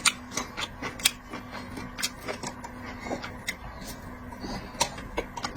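Eating sounds: irregular sharp clicks and smacks of chewing and handling seafood, over a faint steady hum.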